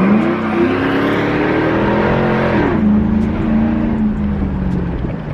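A vehicle engine accelerating hard, its pitch climbing steadily, then dropping sharply about two and a half seconds in as it shifts up a gear. It then runs at a steady lower pitch and fades near the end.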